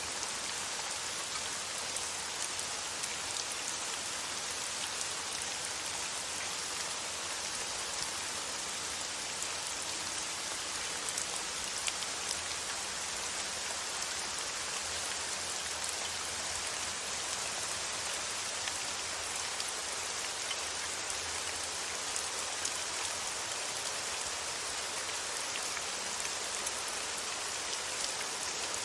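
Steady rain falling, a constant hiss with faint scattered drop taps throughout.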